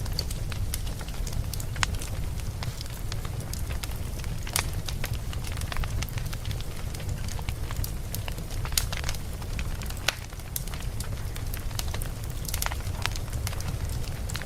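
Campfire burning, with frequent irregular sharp crackles and pops from the burning wood over a steady low rumble.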